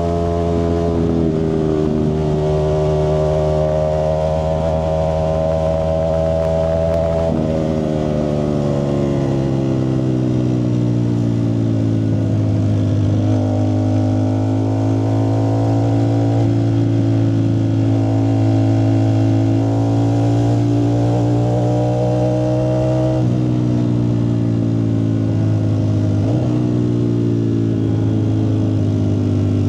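Ducati Streetfighter V4S's 1103 cc V4 engine running through a Zard exhaust, its note drifting slowly up and down in pitch, with sudden changes in pitch about 7 seconds in, about 23 seconds in and about 26 seconds in.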